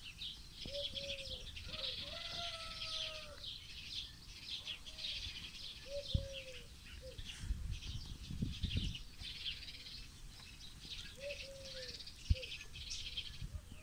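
Wild birds singing, with dense high chirps and trills throughout and short, slightly falling lower calls every few seconds. A few soft low knocks come in between, with one sharp click about twelve seconds in.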